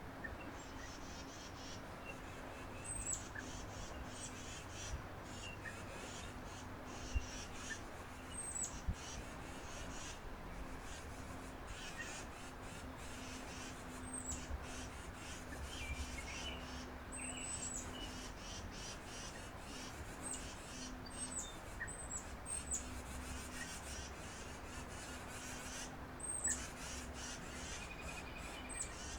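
Small wild birds chirping at a backyard feeder: many short, high call notes scattered irregularly, over a steady low hum.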